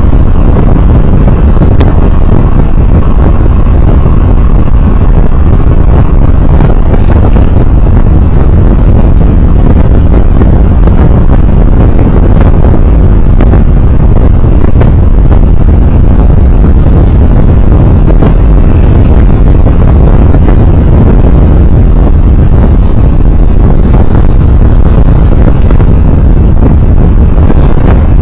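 Steady, loud road noise from a moving vehicle: engine, tyres and wind running together without a break.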